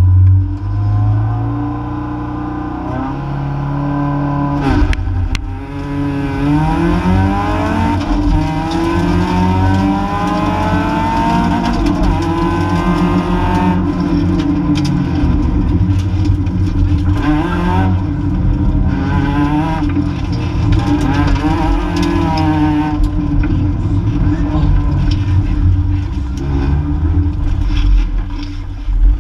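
Rally car engine heard from inside the cabin. It idles and revs at the start line, launches about five seconds in and accelerates hard through the gears with rising revs. It then lifts off and revs up again repeatedly through the course, and settles to lower revs near the end.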